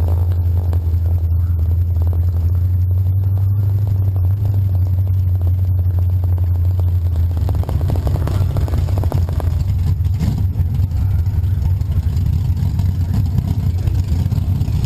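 Car engine idling with a deep, steady low rumble, heard close up. About seven seconds in, the even hum turns rougher and less regular.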